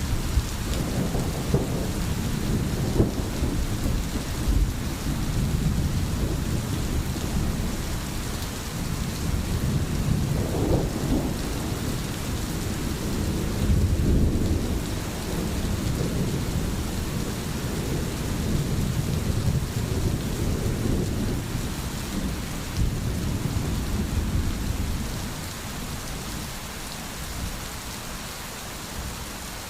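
Steady rain pouring, with low rolling thunder rumbling underneath; the rumble swells and fades several times and dies down near the end.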